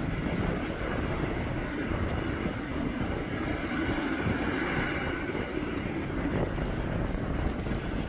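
Jet airliner engines running steadily at low power some distance away, mixed with a rumble of strong wind on the microphone.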